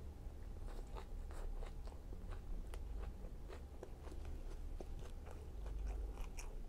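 Close-miked chewing and biting of a chicken fajita in a flour tortilla, with soft peppers and onions: a run of small wet, crunchy mouth clicks.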